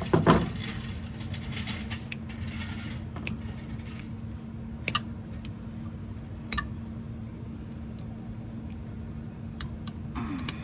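Scattered sharp metal clicks and taps of snap-ring pliers working at a snap ring on a brake booster, with a knock just after the start, over a steady low hum.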